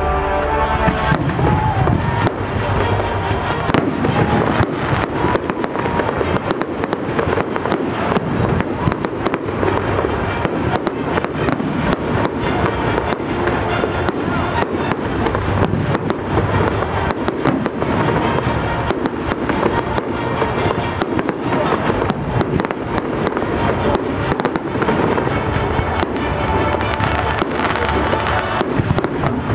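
Fireworks display: a dense, continuous run of bangs and crackles from launching comets and bursting shells, with music playing underneath.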